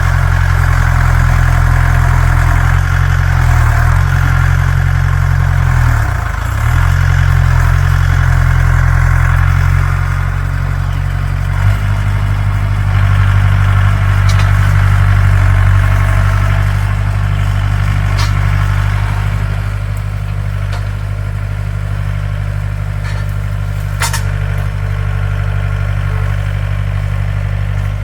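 Mahindra tractor's diesel engine running steadily. Its note wavers a few seconds in and shifts again about twelve seconds in, with a few sharp knocks later on.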